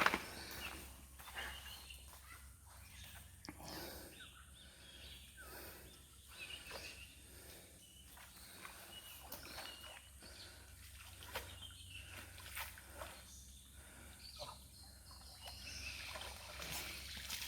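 Faint outdoor background with scattered soft rustles and clicks and a few short chirp-like calls.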